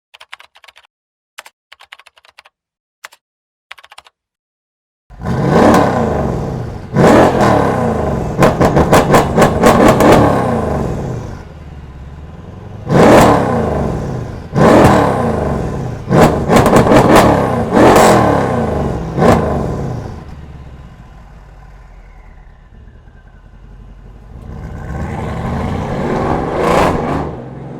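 Mercedes-AMG E63 (W212) V8 running through a tuned aftermarket exhaust. A few faint clicks come first, then the engine starts about five seconds in and is revved in a string of sharp blips, some in quick succession. It settles to a steady idle and rises again near the end.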